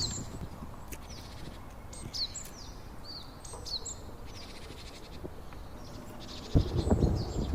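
Small birds calling: repeated short, high chirps that drop sharply in pitch, over a low rumble like wind. Near the end, loud irregular knocks and rustling begin.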